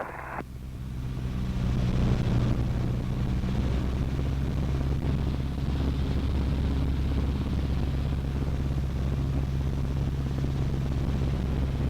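Cessna 152's four-cylinder Lycoming O-235 engine and propeller droning steadily in flight, heard from inside the cockpit. It grows louder over the first two seconds, then holds an even pitch.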